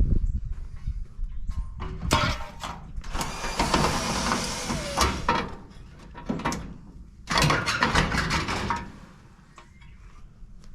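Metal knocks, clatter and scraping from appliances being pulled apart for scrap: a heavy thud at the start, then several rough bursts of scraping and rattling that die away near the end.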